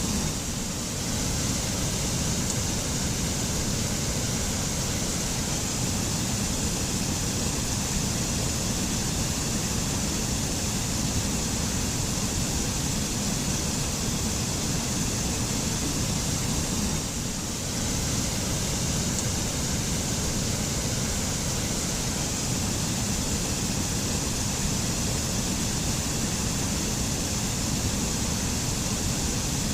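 Mountain waterfall: a steady rush of falling water, even and unbroken.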